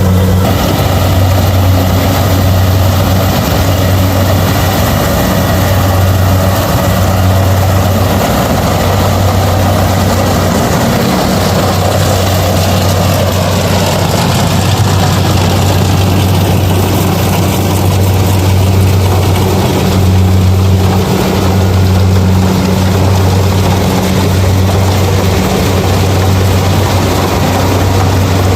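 Kubota DC70 rice combine harvester's diesel engine running steadily under a constant loud low hum, with the machine's mechanical clatter over it.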